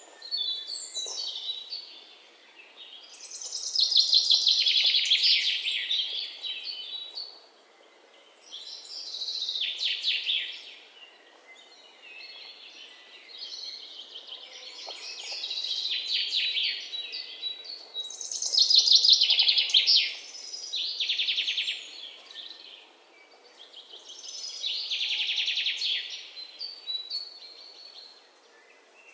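Songbirds singing: phrases of rapid, high-pitched trills a few seconds long, returning every four to six seconds over a faint background hiss.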